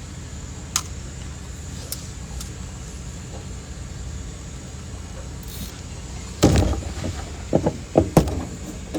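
A steady low rumble with a few light clicks, then about six and a half seconds in a cluster of loud knocks and thumps, as of gear being handled and bumped against a boat.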